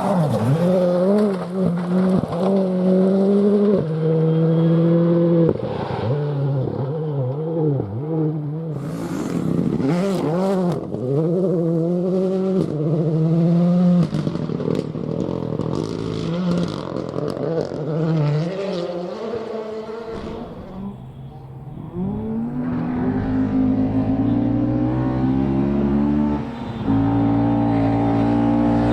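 Rally car engines revving hard, the pitch climbing and dropping with gear changes and throttle lifts as a car works through a corner. About two-thirds of the way through it dips, then an engine climbs steadily again with a further shift near the end.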